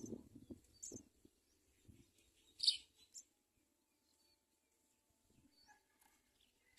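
House sparrows chirping: a few short, sharp, high chirps spaced apart, the loudest about two and a half seconds in, with a soft low rustle in the first second.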